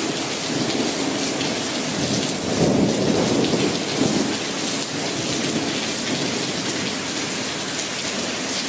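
Steady rain hissing down during a thunderstorm, with a low rumble of thunder swelling about two and a half seconds in and fading by about four seconds.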